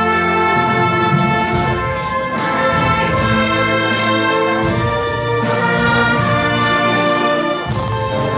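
Wind orchestra playing live, brass to the fore, in full held chords that change every second or so.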